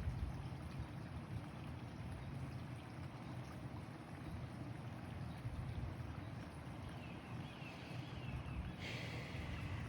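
A small bird singing a quick repeated chirp, starting about seven seconds in, over a steady low rush of outdoor background noise.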